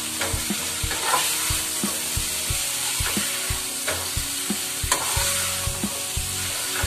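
Parwal and potato pieces sizzling in oil and masala in a kadhai while a metal spatula stirs them, its strokes knocking and scraping against the pan about three times a second over a steady sizzle.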